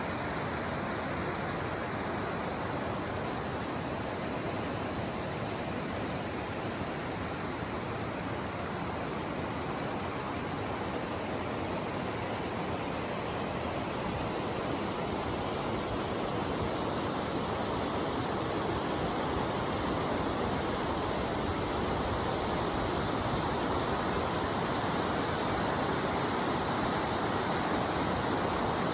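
Steady rushing of running water, an even hiss-and-roar with no breaks, growing slightly louder from about halfway through.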